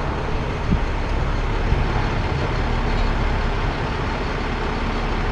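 Heavy tow truck's engine running steadily, a continuous low rumble, during the hook-up.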